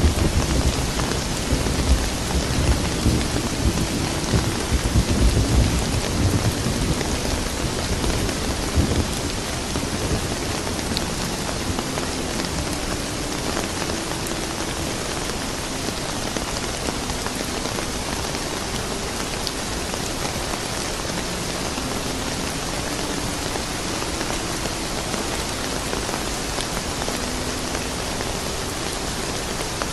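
Steady rain falling on a surface, with low rolling thunder rumbling through about the first nine seconds before it fades into the rain.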